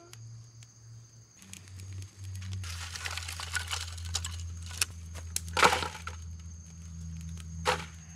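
A small campfire of bark, twigs and lichen kindling catching, crackling, with a couple of loud sharp snaps near the middle and near the end.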